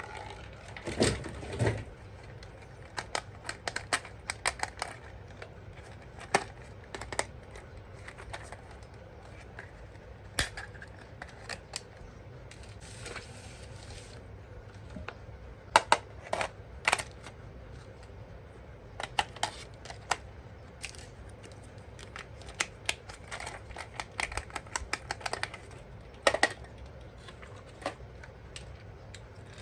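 Hands handling a toy and its packaging: irregular sharp clicks and light knocks, some in quick little clusters, over a faint room hum.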